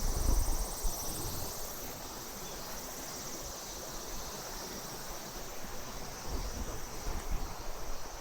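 Insects trilling steadily in high-pitched tones, with low thumps near the start and again about six to seven seconds in.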